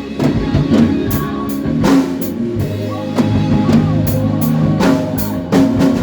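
Band playing an instrumental passage of a gospel song: drum kit with kick drum, snare and cymbal hits over sustained bass and chord notes.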